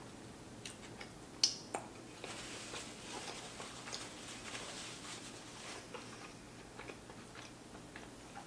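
Faint chewing of a mouthful of chicken sandwich, with small wet mouth clicks and the crackle of a paper napkin as sticky fingers are wiped. A sharp click about a second and a half in is the loudest sound.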